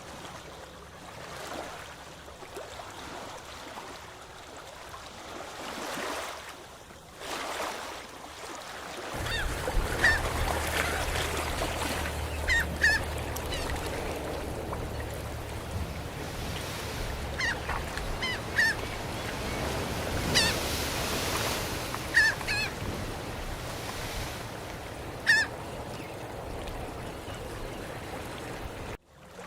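Birds calling in short, high calls, often in quick pairs, over a steady wash of surf and wind. A low steady hum joins about nine seconds in.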